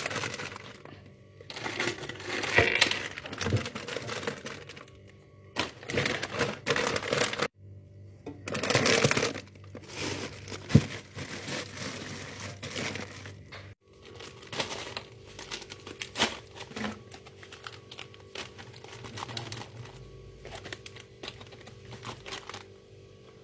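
Packaging crinkling and rustling as it is handled, in irregular bursts with scattered sharp clicks; the sound cuts off abruptly twice.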